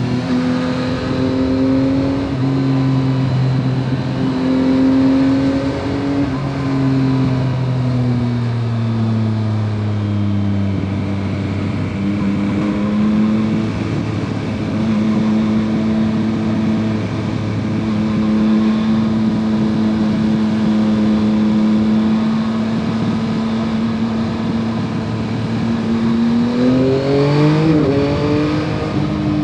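A 2021 Yamaha MT-09 SP's 890 cc inline three-cylinder engine through its stock exhaust, under way on the road. The revs ease off and the pitch drops twice in the first ten seconds, hold steady through the middle, then climb sharply near the end as the bike accelerates.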